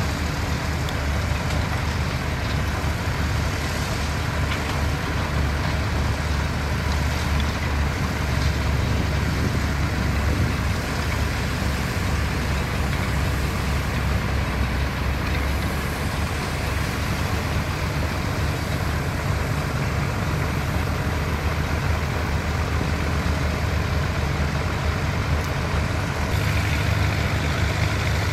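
Heavy diesel construction machinery running steadily with a low engine rumble, growing slightly louder near the end.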